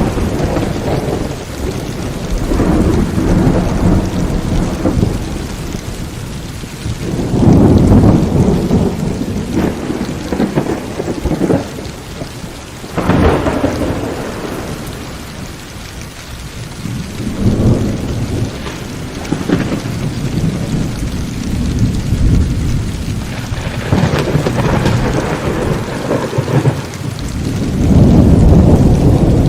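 Heavy rain falling steadily through a thunderstorm, with thunder rumbling again and again, swelling and fading every few seconds; a sharper crack about thirteen seconds in, and the loudest rolls of thunder around eight seconds and near the end.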